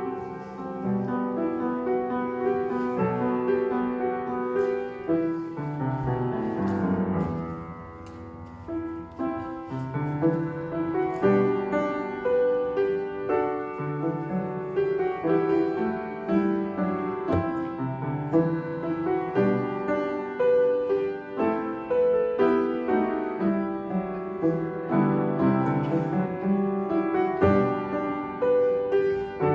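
Piano playing a slow instrumental piece, with a quieter passage about a third of the way through.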